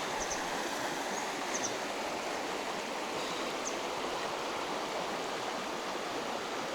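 Mountain river flowing over riffles: a steady, even rush of water.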